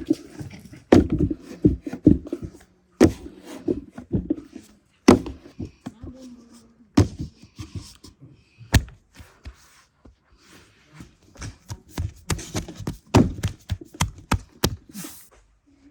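Irregular knocks, taps and thuds follow one another, sometimes several close together and sometimes with a gap of a second or more.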